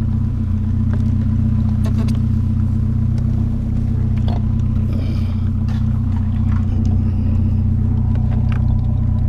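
Motor vehicle engine running steadily at an unchanging speed, a low hum, with a few faint knocks over it.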